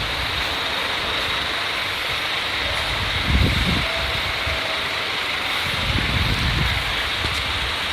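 Scania bus running, heard from inside: a steady engine and road noise with low rumbling swells about three and a half and six seconds in.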